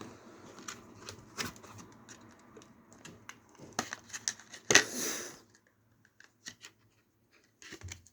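Ryzen 9 CPU box and its plastic packaging being opened by hand: scattered light clicks and rustles, with one louder crinkling rip about five seconds in, then near quiet.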